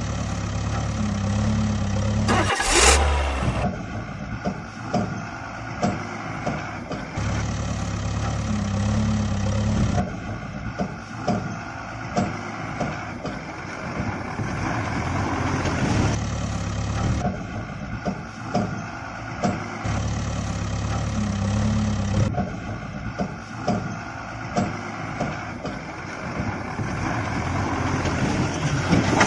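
Heavy vehicle engine running, switching abruptly every few seconds between a deep steady drone and a lighter running sound with regular knocks, with a sudden loud burst about three seconds in.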